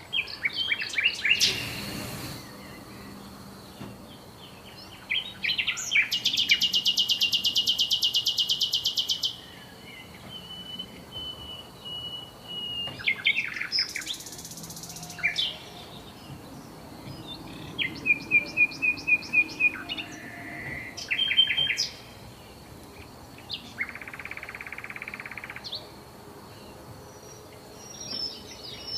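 Songbirds singing and calling: bursts of rapid chirps, fast trills and buzzy phrases in several different song types, with short gaps between them. A faint steady high whine runs underneath.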